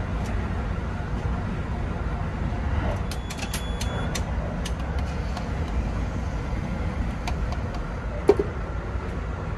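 Steady low rumble of the Kintetsu 8000 series Hinotori limited express running, heard from inside the car. A quick cluster of light clicks comes about three to four seconds in, and a single sharp knock near the end.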